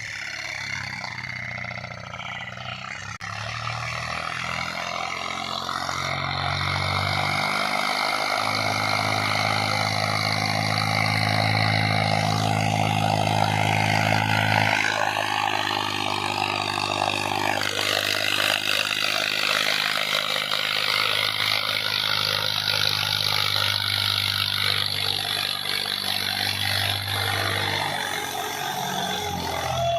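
Tractor diesel engine running hard, its note shifting up and down a few times as the engine speed changes.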